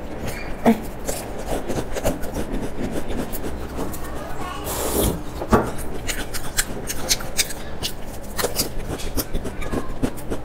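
Close-miked chewing of a crisp waffle-patterned biscuit: a steady run of small crunches and clicks, with a longer, louder crunching rasp about five seconds in.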